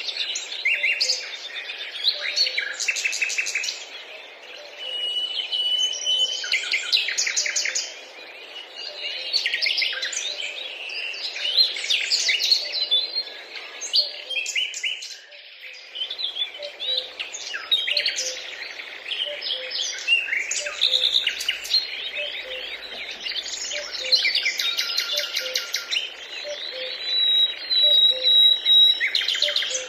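Several small birds chirping and trilling at once in a dense, overlapping chorus, with brief lulls. A faint low note repeats at an even pace underneath.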